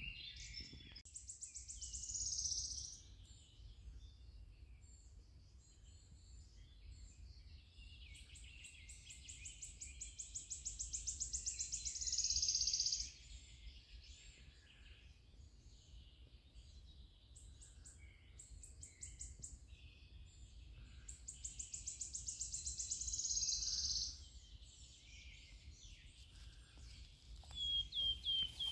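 A songbird singing: three times, a fast series of high notes that speeds up and grows louder over a few seconds, then stops abruptly. A faint low rumble lies underneath.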